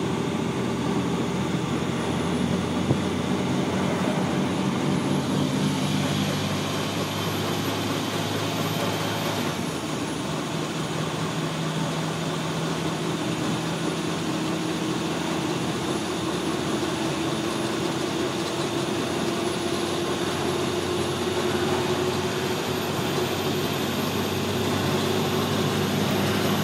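Steady vehicle engine and road noise, with low engine hums that drift slowly in pitch.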